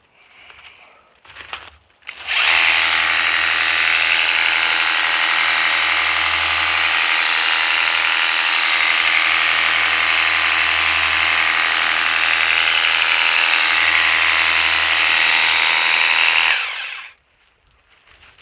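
Worx WG633 Hydroshot cordless pressure washer running with its 40-degree nozzle: a steady whine from the brushless motor and pump over the hiss of the water spray. It starts abruptly about two seconds in and cuts off about a second and a half before the end.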